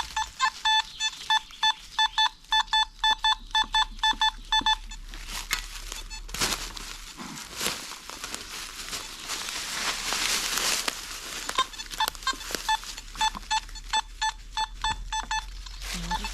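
Metal detector giving a run of short, quick beeps of one pitch as the coil is swept over a buried metal target, then several seconds of rustling, then beeping again about eleven seconds in.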